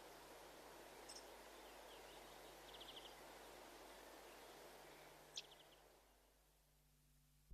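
Faint birdsong over a steady outdoor background hiss: a short high call, a quick trill, then a sharp falling chirp followed by a brief trill. The background fades out near the end.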